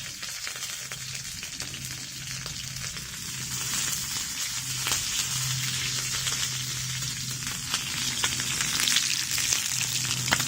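Chicken legs pan-frying in hot oil, sizzling steadily with scattered pops and spits of fat.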